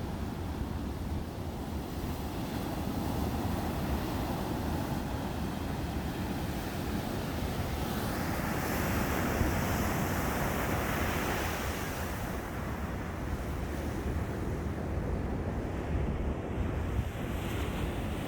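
Sea surf breaking on a beach, a steady wash with one wave crashing and swelling louder about halfway through, over a low wind rumble on the microphone.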